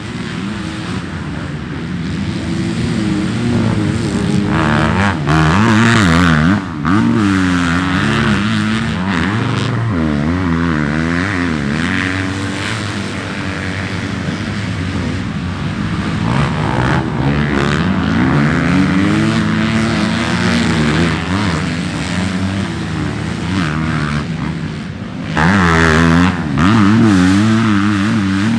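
Dirt bike engines revving hard, their pitch climbing and dropping again and again as the throttle opens and closes through the gears, with a louder burst near the end.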